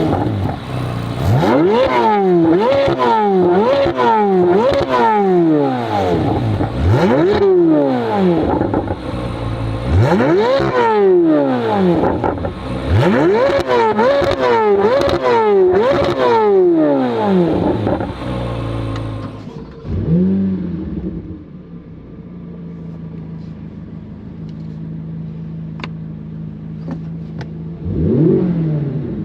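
C8 Corvette Z06's flat-plane-crank V8 through an AWE SwitchPath exhaust, free-revved in quick blips that each climb sharply and fall back, about a dozen in a row. Around two-thirds of the way in it drops to a steady idle, with one more blip near the end.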